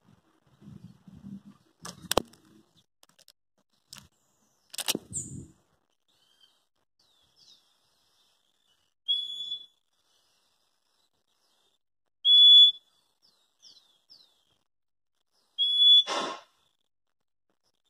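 Small birds calling at a hanging feeder dish: a few faint short chirps and three loud, high, steady whistled notes about three seconds apart. There are also two sharp knocks in the first five seconds.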